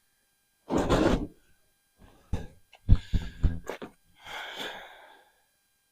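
A man's heavy breaths and short grunts of effort as he lifts and shifts a storage container, with a few knocks and clatters in between.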